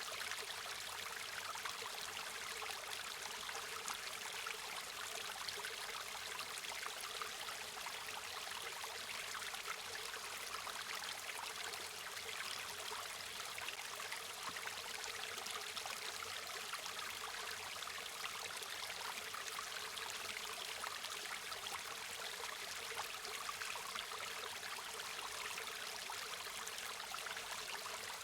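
A river or stream flowing steadily over rocks, a continuous rushing and trickling of water.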